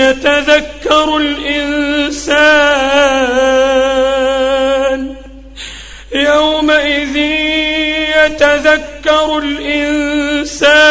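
Solo male voice chanting Quran recitation in the melodic tajweed style, drawing out long, ornamented held notes. There is a brief pause for breath about halfway through.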